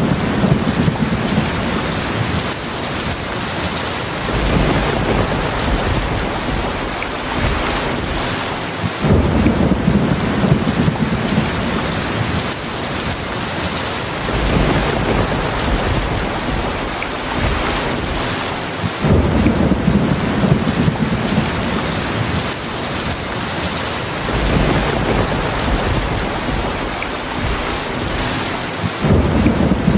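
Heavy rain falling steadily, with low rolls of thunder swelling up about every ten seconds: near the start, about nine seconds in, about nineteen seconds in, and again near the end.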